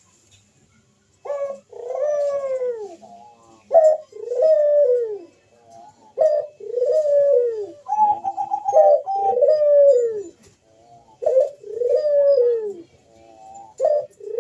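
Barbary dove (burung puter) cooing loudly in its full 'manggung' song: a short sharp opening note followed by a long arched coo, repeated about every two and a half seconds, starting about a second in.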